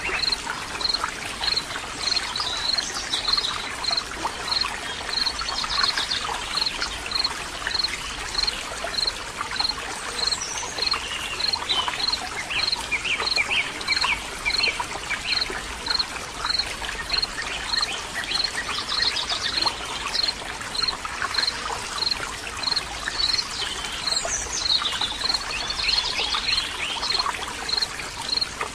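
Water trickling and running steadily, with birds chirping now and then and a short high note repeating about one and a half times a second.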